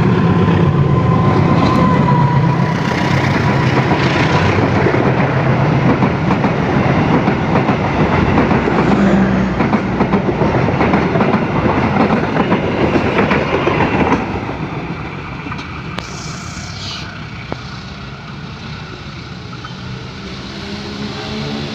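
Diesel-hauled passenger train running past close by, its wheels clattering over the rail joints. Loud for about fourteen seconds, then it falls away to a quieter, steadier rush.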